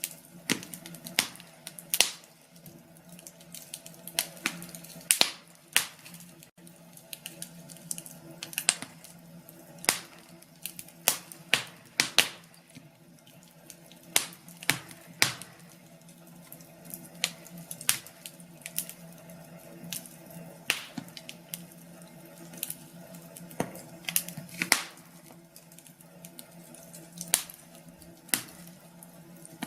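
Wood fire crackling, with irregular sharp pops and snaps a second or so apart, over a low steady hum.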